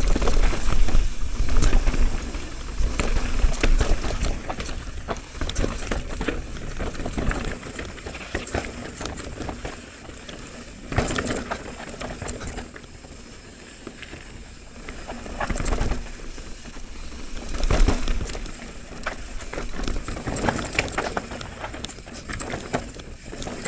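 Mountain bike descending a rough downhill trail: steady tyre and trail noise with constant rattling, clicks and knocks from the bike, and rumbling wind on the microphone. Heavier thumps and rumbles come about 11, 16 and 18 seconds in.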